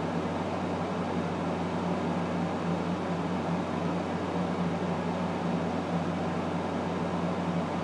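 Steady mechanical hum with an even hiss, unchanging throughout, like a fan or small electric motor running.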